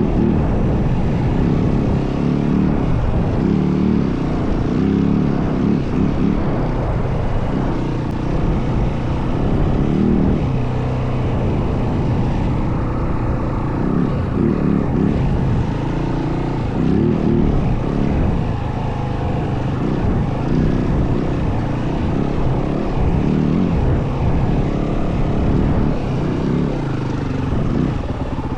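Yamaha WR450F dirt bike's single-cylinder four-stroke engine running under way, its pitch rising and falling again and again as the throttle opens and closes.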